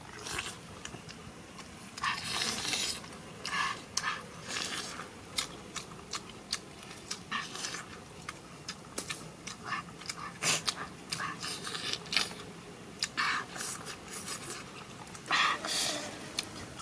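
Loud, close-up biting and chewing of crisp raw lettuce leaves: an irregular run of short, sharp crunches.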